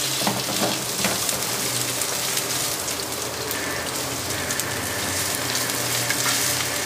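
Sliced vegetables sizzling and crackling in hot oil in a wok over a medium gas flame as they are stir-fried, with a few clicks of the metal spatula against the pan in the first second.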